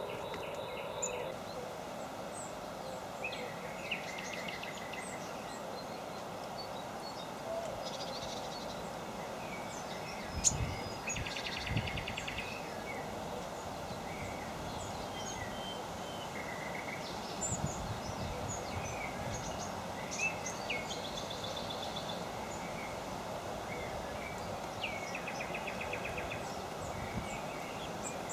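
Small birds chirping and calling around a garden birdbath: scattered short high chirps and several brief rapid trills over a steady outdoor background hum. A couple of low knocks near the middle stand out as the loudest sounds.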